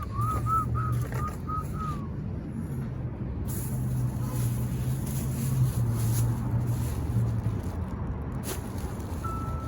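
Low rumble of a motor vehicle engine running, with a quick run of short high chirps in the first two seconds and a reversing beeper starting just before the end.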